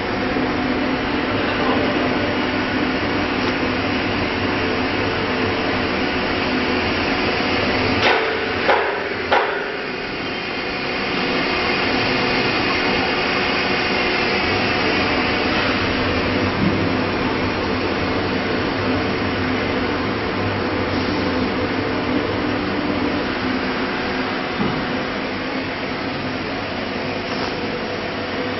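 CNC router machinery running with a steady hum and several fixed tones. About eight to nine seconds in come three short, sharp bursts, followed by a whine that slowly falls in pitch.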